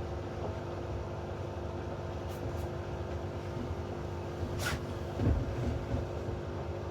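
Hoover washing machine running steadily, its motor humming as the drum turns slowly to redistribute the load after a spin attempt that did not take. There is a brief swish about four and a half seconds in and a low thump about half a second later.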